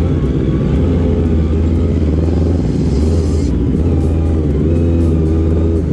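Kawasaki ZX25R's inline-four engine with an aftermarket racing exhaust running at low revs, pitch dipping and rising slightly as the throttle is eased on and off. A short hiss about three seconds in.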